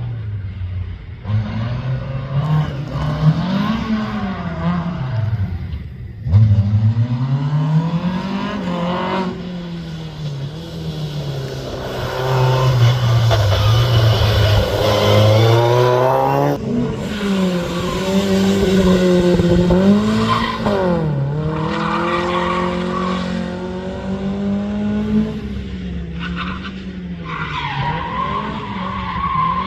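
Rally car engine driven hard, its pitch climbing and falling again and again as it goes through the gears and corners, with short breaks at the gear changes.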